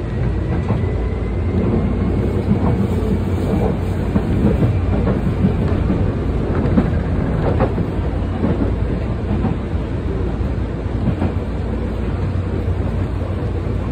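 Tokyu 8500-series electric train at an underground station platform: a steady low rumble with scattered clicks and knocks, and a faint whine rising slowly in pitch over the first few seconds.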